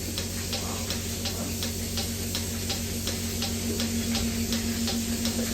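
Goat milking machine running: its pulsator clicks evenly, about three times a second, over a steady mechanical hum.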